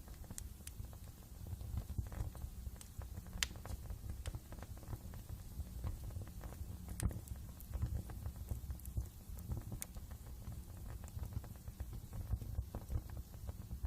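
Wood fire burning in a fireplace, crackling with a steady low rumble and frequent small snaps, and a few sharper pops about 3.5, 7 and 10 seconds in.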